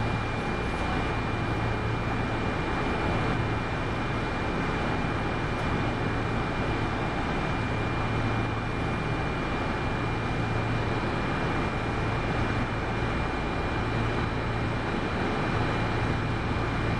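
Kintetsu 8810-series electric train running at a steady speed, heard from inside the car: an even rumble of wheels and running gear with a thin, steady high tone and a low hum that comes and goes.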